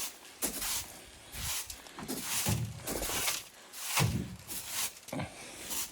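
A run of irregular crunching noises, about one or two a second, each with a low thud beneath it.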